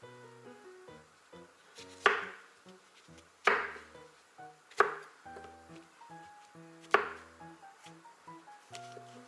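Four sharp knife chops on a cutting board, spaced one to two seconds apart, over light plucked-string background music.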